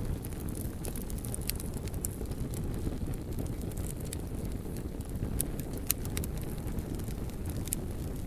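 Wood fire burning: a steady low rumble of flames with irregular sharp crackles and pops, the loudest pop about six seconds in.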